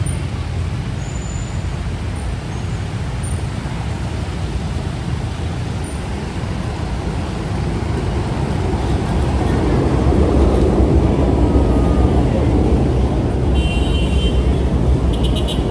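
Road traffic: steady engine and road noise, growing louder as a vehicle passes close about nine seconds in.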